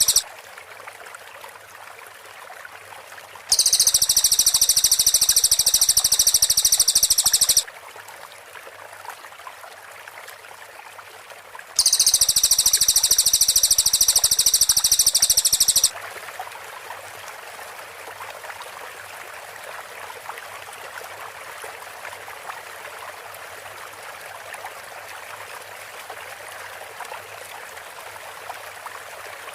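Cililin singing its rapid-fire song: twice, a burst of about four seconds of very fast, high-pitched repeated notes, with a steady background hiss between them. After the second burst, about halfway through, only the hiss remains.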